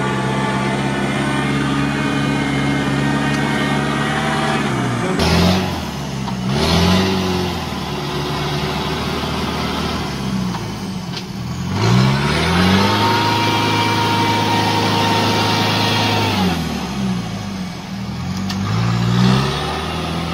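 Off-road vehicle engine running steadily, then revved up and down again and again as it works in deep mud. A high whine rises and holds for a few seconds in the middle.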